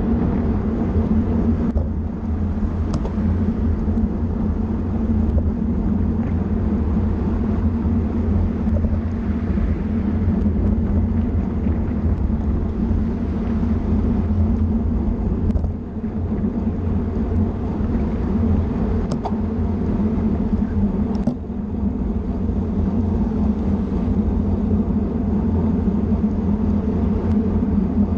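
A motor vehicle running steadily, a constant low engine drone mixed with road noise and no clear revving, with a few faint clicks.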